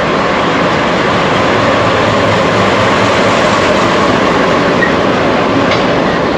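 A train running on the track close by: a loud, steady rumble of wheels and running gear.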